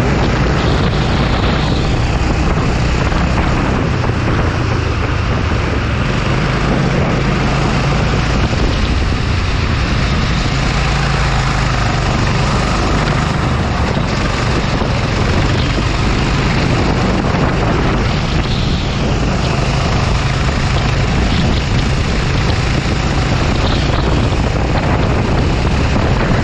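Go-kart engine running steadily under load: a low drone under a dense rushing noise that holds at the same level throughout.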